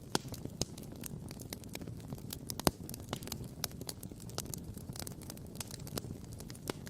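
Wood campfire crackling and popping: frequent irregular snaps over a steady low rush, with one louder pop about two and a half seconds in.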